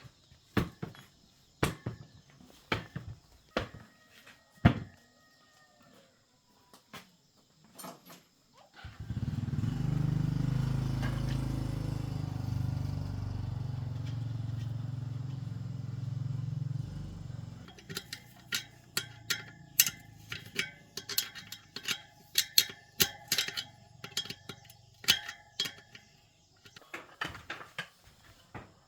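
Workshop tool sounds: scattered metallic clicks and knocks, then a motor running steadily for about eight seconds before stopping, then a quick run of clicking and tapping.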